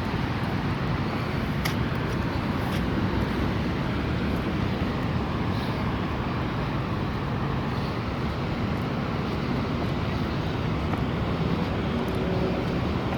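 Steady road traffic noise with a constant low rumble and a few faint clicks.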